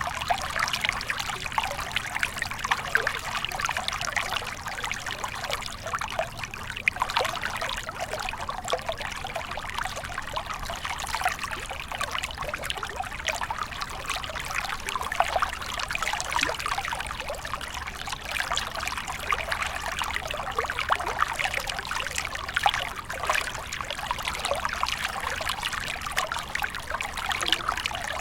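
Small stream flowing steadily, water trickling and splashing over rocks.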